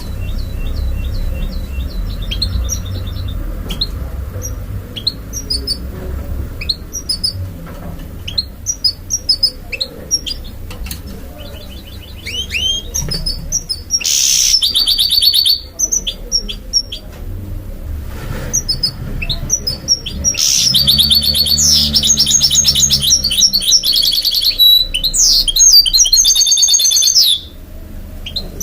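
Mule goldfinch and canary singing: scattered high chirps and short trills, with a loud, fast trilled phrase about halfway through and a longer loud trilled run in the second half. A steady low rumble lies underneath.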